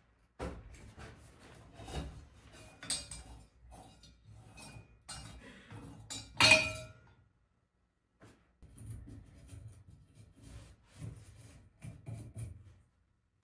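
Hard objects being handled: irregular clinks and knocks, with one louder metallic clank that rings briefly about six and a half seconds in.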